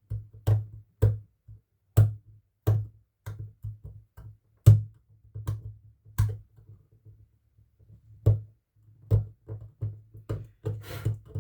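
Irregular sharp clicks and taps, roughly one or two a second, from small tools and parts being handled during bench repair work on an LED bulb, over a steady low electrical hum.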